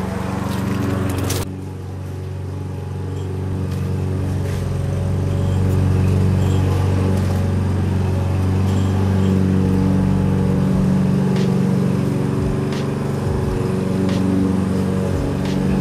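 Car engine idling steadily, a low even hum that grows a little louder over the first few seconds.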